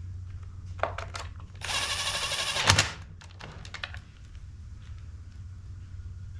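Clicks and knocks of blower parts and hand tools being handled during reassembly, with a dense rattling burst of about a second and a half in the middle that ends in a sharp knock, over a steady low hum.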